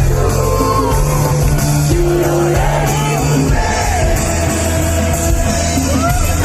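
Live amplified concert music: a band with a heavy, steady bass line under a sung melody.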